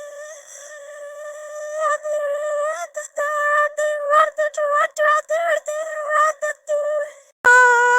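High-pitched synthetic AI voice uttering gibberish: a quiet held hum, then a run of quick, choppy nonsense syllables, then a sudden louder sustained sung note near the end.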